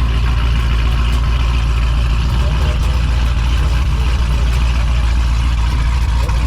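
Steady, loud low rumble of a car engine and running vehicle, with no change in pitch or level.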